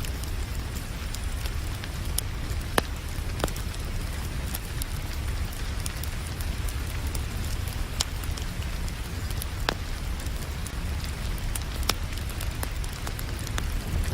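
Wood fire crackling, with sharp pops scattered irregularly over a steady rumbling hiss of rain.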